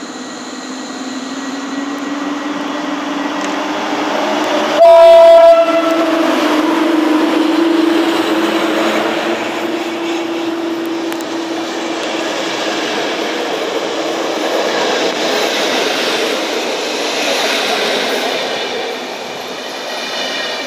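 Electric locomotive hauling an Intercity passenger train through a station, sounding its horn once, briefly, about five seconds in; the horn is the loudest sound. Before and after it there is a steady hum from the locomotive, then the noise of the coaches' wheels running past on the rails.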